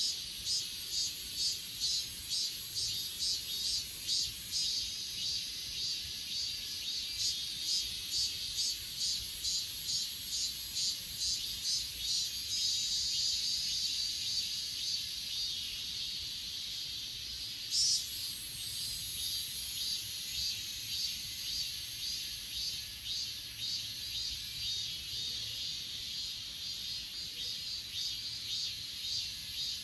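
Grass insects such as crickets chirping in a steady pulsing rhythm, about two pulses a second. About two-thirds of the way through, a louder, higher steady hiss suddenly sets in over the chirping.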